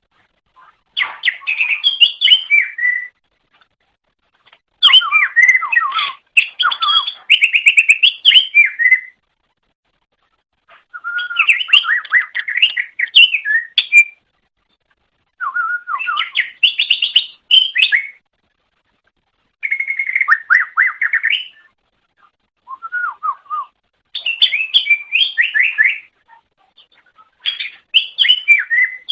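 Cucak ijo (green leafbird) singing: about eight phrases of rapid, varied warbled and trilled notes, each a second to a few seconds long, with short pauses between them.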